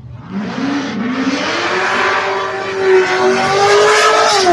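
Two drag-racing cars, a Corvette and a fourth-generation Camaro SS, launching down the strip side by side. Their V8 engines go to full throttle about a third of a second in, rise steadily in pitch, then drop sharply in pitch near the end.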